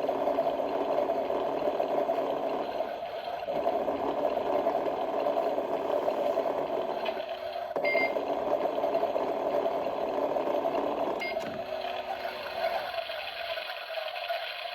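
Small appliance motor running with a steady hum, with two short electronic beeps about 8 and 11 seconds in.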